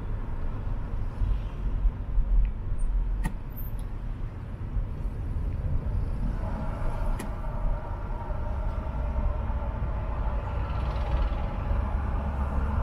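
A car driving in city traffic, heard from inside the cabin: a steady low rumble of engine and road noise. A faint hum of several tones comes in about six seconds in, and there are two light clicks.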